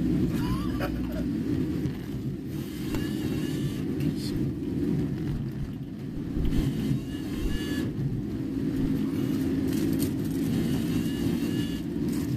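Steady low engine and road rumble of a car heard from inside the cabin while driving.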